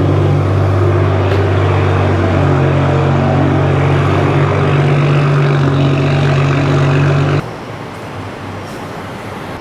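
Stage 2+ tuned BMW F10 535i's turbocharged straight-six and loud aftermarket exhaust, holding a steady, loud note under load. About seven seconds in it drops suddenly to a much quieter level.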